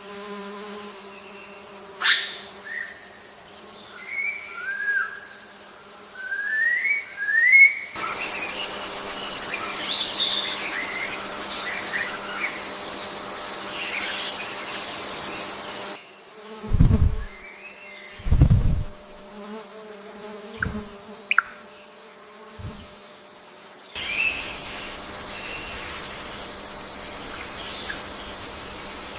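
Forest ambience of birds chirping and insects buzzing, with short rising chirps in the first part and high, steady insect buzzing in two spells, cut together in sections that change abruptly. Several dull thumps, the loudest sounds, come near the middle.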